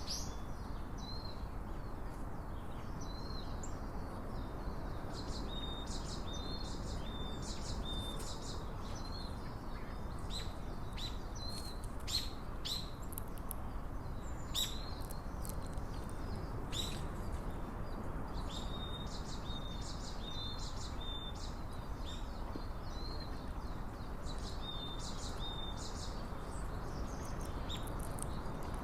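Small songbirds calling outdoors: many short, high chips and brief thin notes, scattered irregularly, over a steady low background rush.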